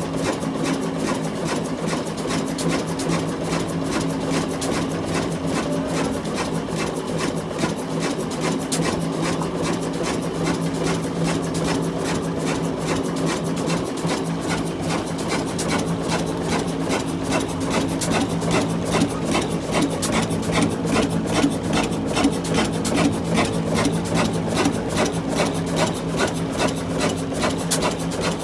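Old diesel engine of a flour mill running steadily, with a fast, even mechanical clatter.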